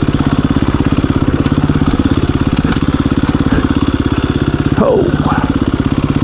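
KTM 350 EXC-F's single-cylinder four-stroke engine running at low revs with an even, fast pulse as the dirt bike creeps along slowly. A brief squeal that drops and then rises in pitch comes about five seconds in.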